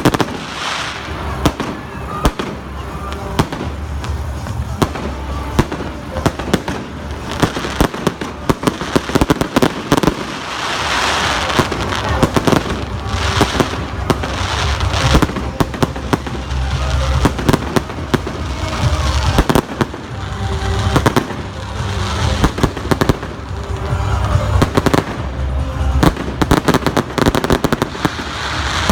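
Fireworks display: a dense, continuous run of shells bursting with sharp bangs and crackling.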